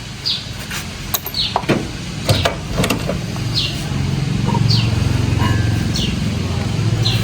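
An engine running steadily, getting louder about four seconds in, with a few sharp metallic clicks early on. A bird repeats a short falling high chirp about once a second.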